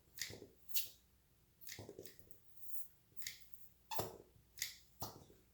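Plastic suction cupping cup on oiled skin, making a string of short pops, about two a second, as it is cupped, released and moved along the face.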